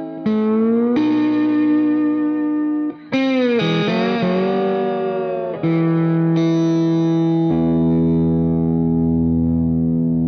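Distorted electric guitar music: sustained notes and bends that change pitch every second or two.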